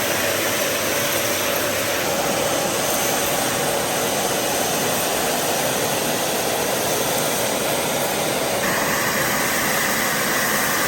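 AGARO Icon 1600 W bagless vacuum cleaner running, a loud steady whooshing drone of its motor and suction. The sound shifts slightly about nine seconds in.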